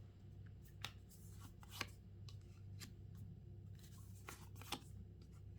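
Tarot cards being handled: a few soft, separate clicks and flicks of cards over a quiet room with a low hum.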